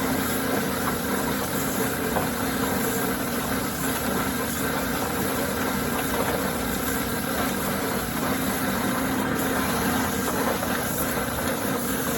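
Sportsman tub-style chicken plucker running steadily, its spinning rubber fingers stripping the feathers from a scalded Cornish Cross broiler.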